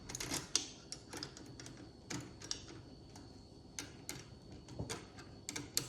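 Irregular small metallic clicks and taps of hand tools working the adjusting screw and locknut on a Holley carburettor's accelerator pump lever.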